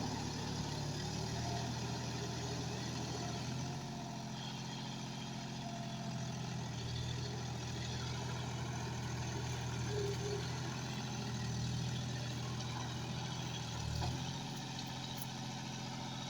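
John Deere 5105 tractor's three-cylinder diesel engine running steadily.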